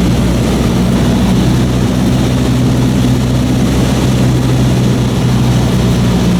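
Cessna 152's four-cylinder piston engine and propeller droning steadily inside the cabin, held at approach power on final.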